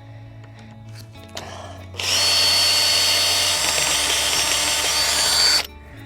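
Power drill running steadily for about three and a half seconds with a high whine, driving a screw back out of wood. It starts about two seconds in and cuts off suddenly near the end.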